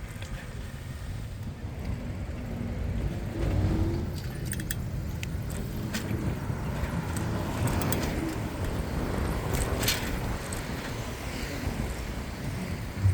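City street traffic heard from a moving bicycle: cars passing, with a steady low rumble of wind on the microphone and a few light clicks around the middle.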